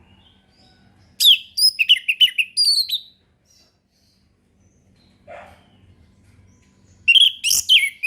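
Orange-headed thrush singing: two bursts of quick, varied whistled notes, each about two seconds long, with a pause of about four seconds between them.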